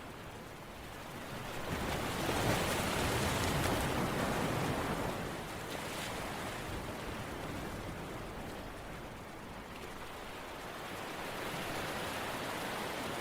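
Ocean waves washing in: a rushing noise that swells about two seconds in, eases off slowly, and builds again near the end.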